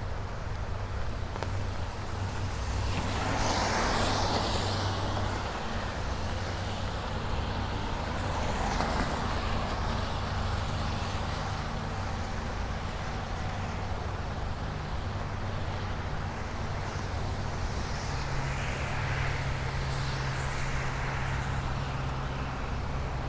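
Road traffic passing: a steady low rumble with the tyre hiss of vehicles swelling and fading as they go by, three times more loudly.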